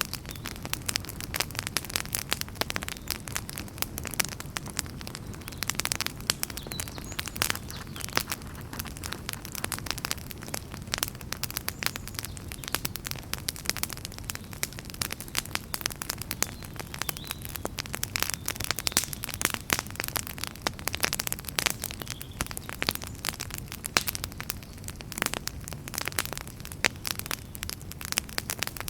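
Wood fire burning in a fireplace, crackling: dense, irregular snaps and pops over a low steady rumble of the flames.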